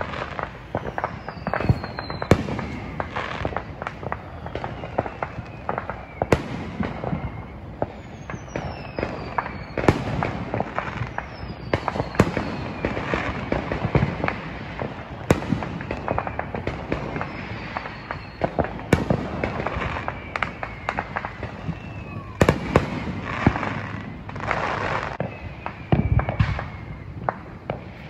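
Consumer fireworks going off at a distance: a steady string of sharp bangs and crackles, with several falling whistles among them. The loudest bangs come about 23 to 26 seconds in.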